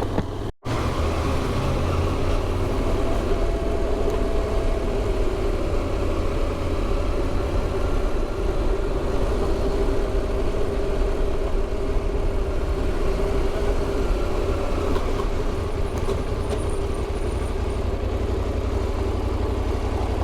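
Motorcycle engine running steadily while riding, over a low rumble of road and wind noise. The sound cuts out completely for a moment about half a second in.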